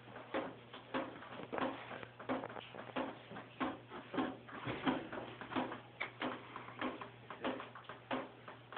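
Water dripping and splashing from the leaking ceiling into standing water, an irregular patter of drops about two or three a second, over a steady low hum.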